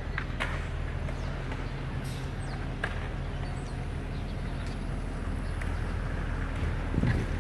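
City street traffic noise: a steady low engine hum from idling vehicles, with a few faint short clicks.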